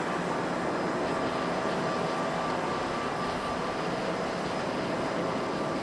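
Boeing 787-8 airliner's jet engines running at takeoff power: a steady rushing noise with a faint steady whine over it.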